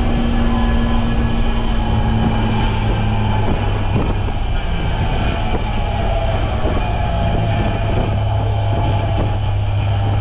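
BMW M20B25 2.5-litre inline-six in an E30, heard from inside the car, running at a steady engine speed. A higher tone in the engine note drops out about three and a half seconds in, and light clicks and rattles come and go throughout.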